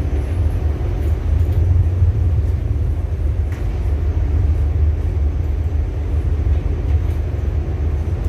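Ship's engine running with a steady low drone, heard aboard the vessel.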